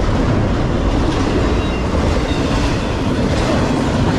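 CSX intermodal freight train's well cars rolling past: a steady, loud rumble of steel wheels on the rails.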